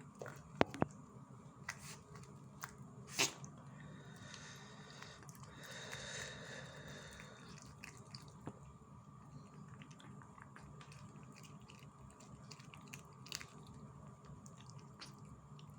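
Small animal chewing, heard as scattered short clicks and crunches over a faint steady hum.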